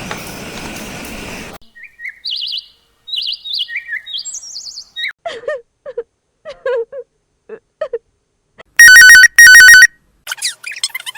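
A steady hiss that stops suddenly, then a string of short chirps and blips, first high and then lower in pitch, like cartoon bird sound effects. Near the end come two loud electronic ringing tones, about half a second each.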